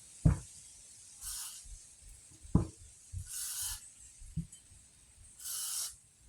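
Short hissing bursts of an aerosol spray can, about every two seconds, with sharp knocks between them, the loudest a moment after the start.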